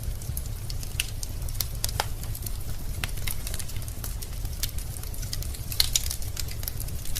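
Wood fire burning in a fireplace: a steady low rumble of the flames with irregular sharp crackles and pops from the burning logs, one louder pop about six seconds in.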